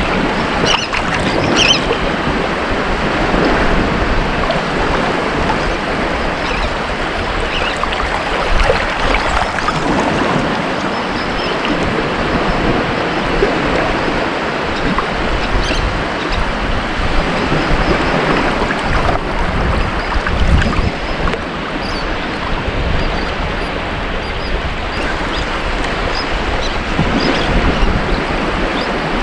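Ocean surf on a beach: a continuous rush of breaking and washing waves that swells and eases a little from moment to moment.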